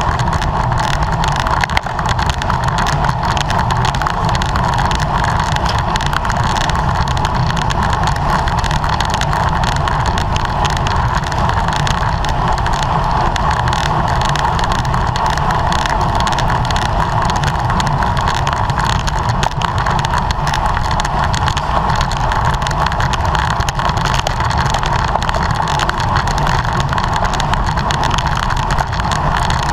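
Steady rush of wind and road noise on a camera microphone riding along on a racing bicycle at speed.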